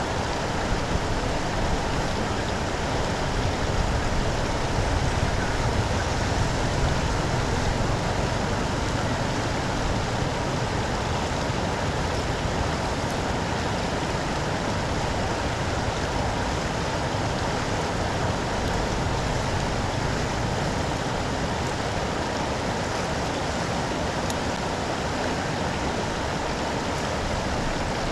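Steady rush of storm floodwater pouring away down a street drain, with rain falling.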